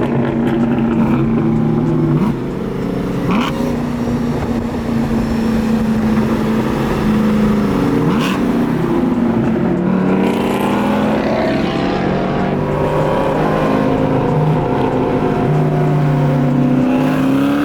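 Car engines and exhausts running while cruising, with one engine's pitch rising as it accelerates near the end.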